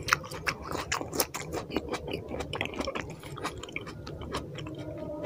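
Close-miked chewing with many wet mouth clicks and smacks, quick and irregular, thinning out over the last couple of seconds.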